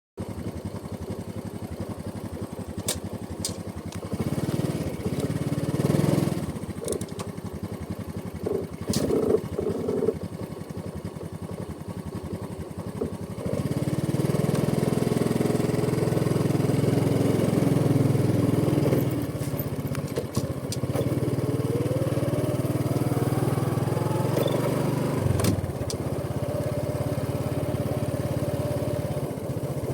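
Honda Supra X 125 motorcycle's single-cylinder four-stroke engine running under way. It gets louder about halfway in, and its pitch rises and falls as it accelerates and shifts gears. There are a few sharp clicks in the first ten seconds.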